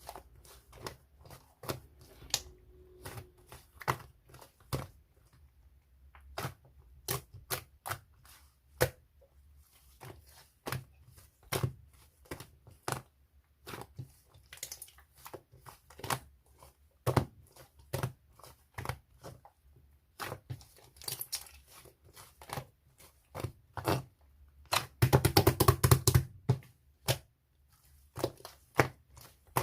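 Cream slime being squished and stretched by hand, giving irregular sharp clicks and pops from trapped air. Near the end it breaks into a dense run of crackling pops, the loudest stretch.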